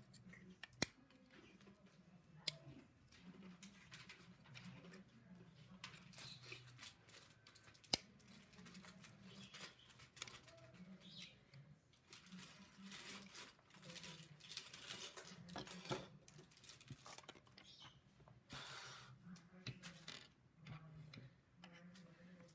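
LEGO plastic pieces being handled and pressed together: three sharp clicks, with stretches of light rustling and clatter between them.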